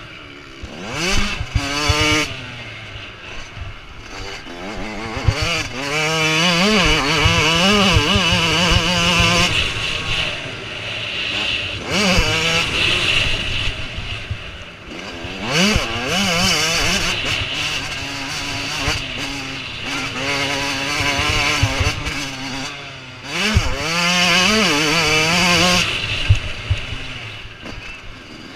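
Motocross bikes racing, their engines revving hard and changing gear, the pitch climbing and dropping again and again as riders accelerate and pass.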